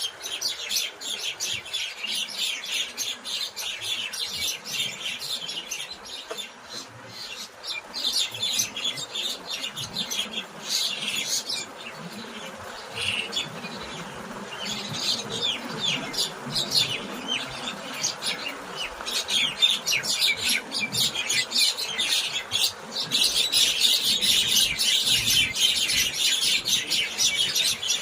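A flock of many small birds chirping and twittering together in a dense, unbroken chorus of short calls, growing a little louder near the end.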